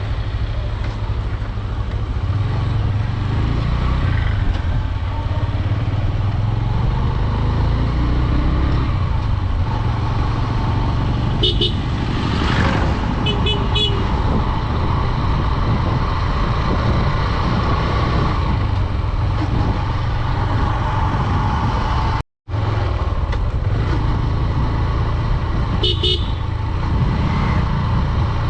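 Single-cylinder Honda Dream 110 motorcycle engine running under way, with steady wind rush on the microphone. Short horn beeps cut through about 12 seconds in, again around 13 to 14 seconds, and near the end. The sound drops out completely for a moment about 22 seconds in.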